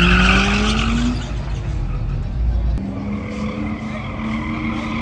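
A vehicle's engine revving with its tires squealing. The engine climbs in pitch during the first second, then holds at high revs with a sustained tire squeal from about three seconds in, as in a burnout or drift.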